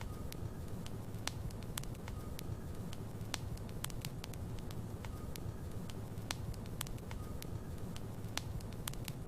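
Wood logs burning in a fireplace: frequent irregular sharp crackles and pops over a steady low rumble of the flames.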